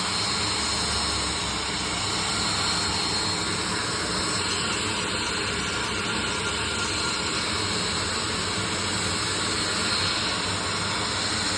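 Aircraft turbine engines running steadily at the airport, a constant rushing noise with a high, even whine.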